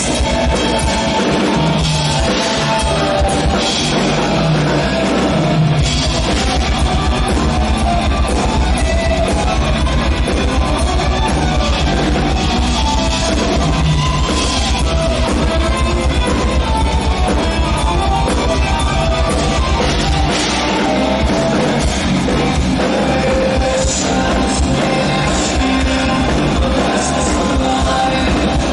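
Live progressive metal band playing loudly, with distorted electric guitars, bass and a fast drum kit, as recorded from the audience.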